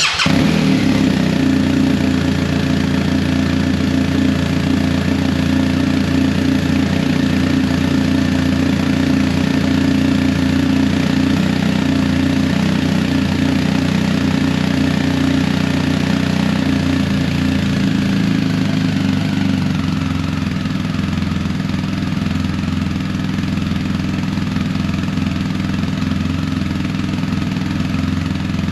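2022 BMW R 1250 GS Adventure's flat-twin boxer engine on its stock exhaust, idling steadily right after a cold start. The idle settles slightly lower about two-thirds of the way through.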